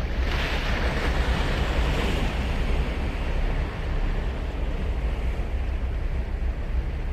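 Ocean surf breaking on a sandy beach. A wave crashes right at the start and its hissing wash fades over the next few seconds, over a steady low rumble.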